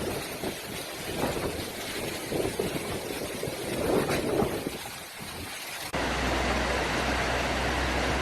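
Storm noise of wind and rushing water, uneven and gusting at first, then cutting abruptly about six seconds in to a steady rushing noise with a low hum underneath.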